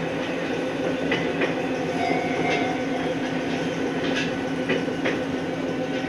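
Ohmi Railway electric train running, heard from on board: steady running noise with a constant hum, and wheels clicking over rail joints several times at uneven intervals.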